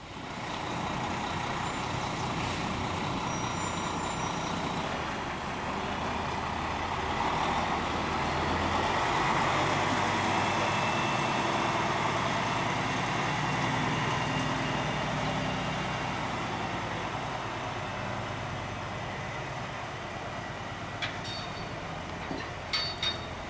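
A heavy lorry's diesel engine running as it moves, growing louder toward the middle and fading again, with a few short clicks near the end.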